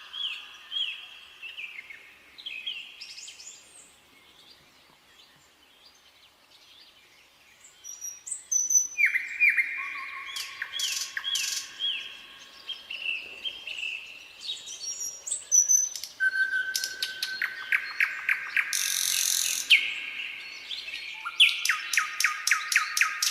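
Nightingale singing: phrases of rapidly repeated notes, whistles and dry rattles, broken by short pauses. After the first few phrases the song lulls for a few seconds, then comes back louder with fast trills and a long run of repeated notes near the end.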